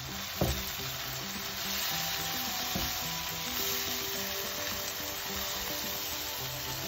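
Chopped tomato, onion and garlic sizzling in hot oil in a non-stick frying pan as ground spices are stirred in with a silicone spatula, with a knock about half a second in.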